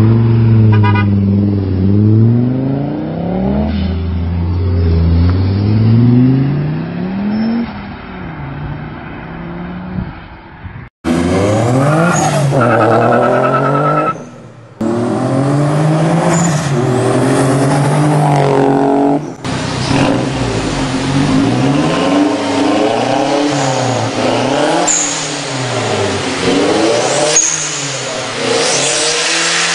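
Turbocharged car engines revving in repeated blips, several clips one after another, each rev dropping away as the blow-off valve vents; the last part has quicker, shorter blips about once a second.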